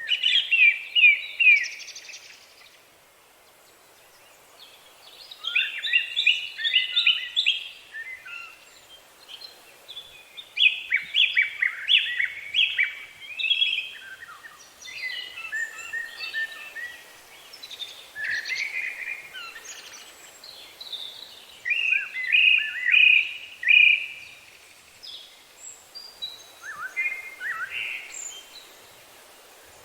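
Songbird singing a series of phrases. Each phrase is a quick run of downward-slurred notes lasting two or three seconds, with short pauses between phrases, over a faint steady background hiss.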